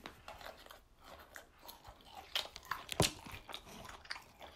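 Close-up chewing of a mouthful of broccoli, a run of small crisp crunches, with one louder, sharper crunch about three seconds in.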